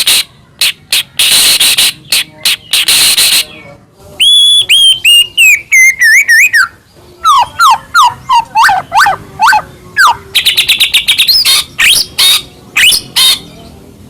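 White-rumped shama singing a loud, varied song. It opens with harsh, raspy bursts, then a run of clear whistled notes falling in pitch, then quick rising and falling sweeps and a fast rattle of notes.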